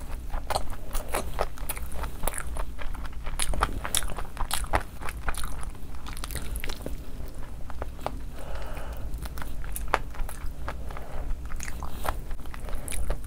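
Close-miked chewing and biting of a sauced fried chicken lollipop: a dense run of wet mouth clicks and smacks with occasional crunches.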